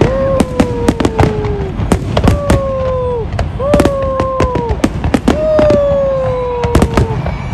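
Fireworks going off in a rapid, dense string of bangs and crackles. Over them come five long held tones of about a second or more each, dipping in pitch as each ends.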